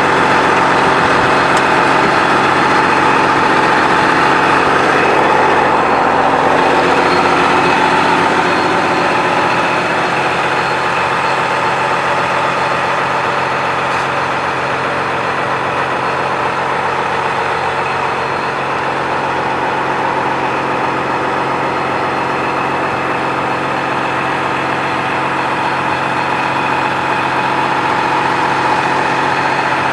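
2012 John Deere 9460R tractor's diesel engine idling steadily, a little quieter from about eight seconds in.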